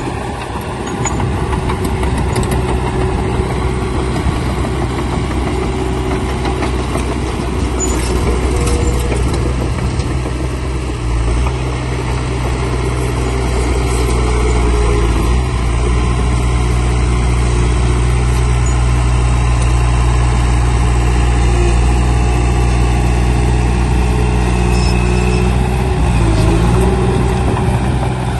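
Heavy diesel engine of earthmoving equipment running steadily, growing a little louder about twelve seconds in.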